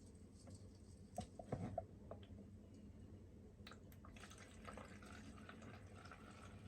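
Near silence with a few faint light clicks and knocks, a small cluster about a second in and another near four seconds.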